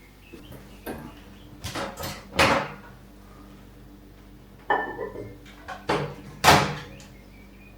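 Knocks and clunks of things being handled in a kitchen, in two clusters: a few about two seconds in, then more from about five seconds. The loudest is a sharp knock near six and a half seconds. A faint steady hum lies underneath.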